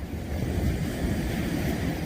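Sea waves washing on the shore, one wave swelling up about half a second in, over a steady low rumble of wind buffeting the microphone.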